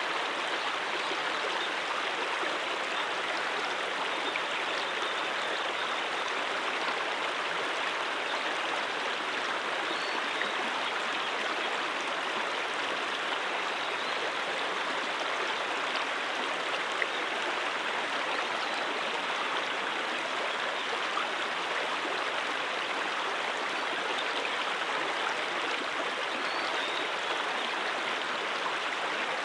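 Stream water flowing, a steady, unbroken rush with no change in level.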